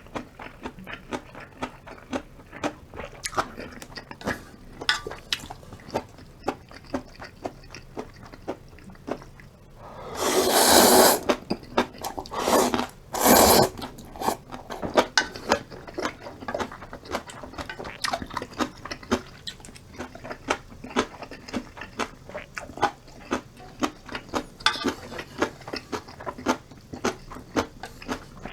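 Wet chewing and crunching of ramen noodles and kimchi, a steady run of small clicks. Two loud rushing slurps of noodles come about ten and thirteen seconds in.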